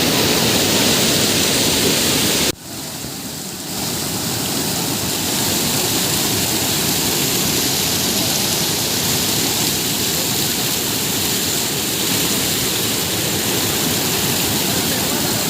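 Waterfall with a steady, loud rush of falling water. About two and a half seconds in, the sound drops off abruptly, then comes back a little quieter and holds steady.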